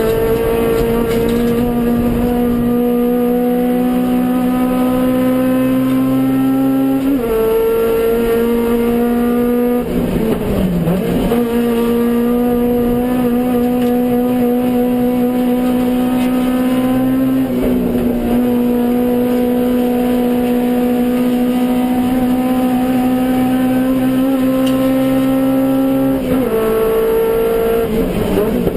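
Suzuki Swift GTi's G13B four-cylinder race engine held at high revs under full throttle, a steady high note through long pulls. The pitch steps down at gear changes about seven and seventeen seconds in, and dips and climbs back around ten to eleven seconds and again near the end as the car brakes for corners and accelerates out.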